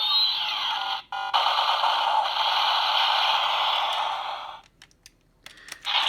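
Electronic blast sound effect from a DX Shotriser toy's small speaker, following its finishing-attack call. It is a long, noisy effect with a brief break about a second in and fades out about four and a half seconds in. A few sharp clicks follow near the end.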